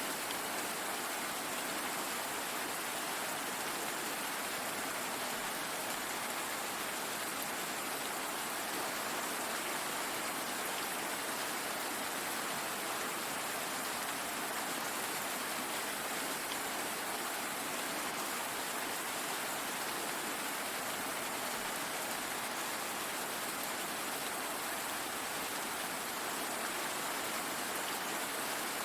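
Steady, continuous rainfall, an even hiss of falling rain.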